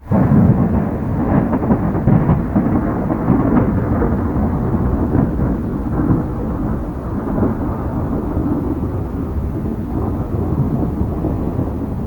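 Hurricane storm noise: a loud, continuous low rumble with no breaks, easing slightly toward the end.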